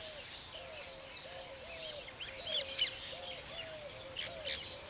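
Weaver birds chirping in short clusters, around the middle and again near the end, over a steady string of short low-pitched notes repeating about twice a second.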